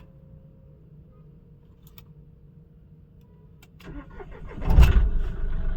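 Mahindra Bolero Neo's three-cylinder diesel engine being started. After a faint hum, the starter cranks briefly near the end and the engine catches with a loud low burst, then settles into steady running. It starts promptly on a short crank, though the engine carries a rail pressure sensor fault (code P0193).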